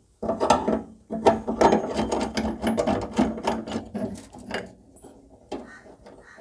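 Rapid metal-on-metal scraping and clicking of a hand tool working the gas stove's jet nut loose. It is busiest for the first four and a half seconds, then grows fainter and sparser.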